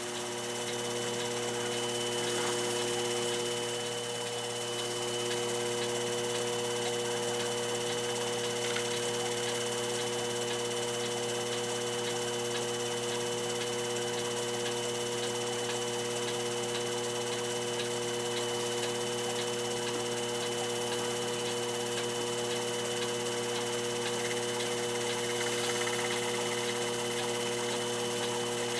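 A small electric motor, such as a lathe's, running steadily with an even hum, spinning a clock wheel's arbor while its pivots are polished.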